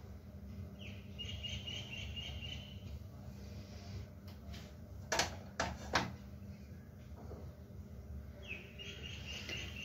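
A small bird's high trilling call twice, each lasting about two seconds, near the start and near the end. Three sharp clicks come in quick succession in the middle, over a steady low hum.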